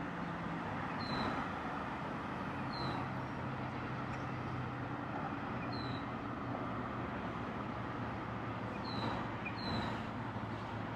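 Steady outdoor traffic noise with a low hum. A few short, high, falling chirps come at intervals over it.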